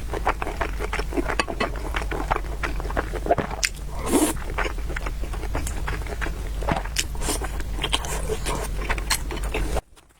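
Close-miked mukbang eating of noodles and meatballs: irregular chewing and biting clicks and smacks, over a steady low hum. The sound drops out briefly just before the end.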